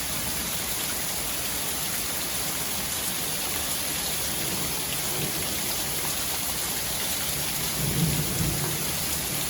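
Steady rain falling, an even dense hiss, with a low rumble swelling about eight seconds in.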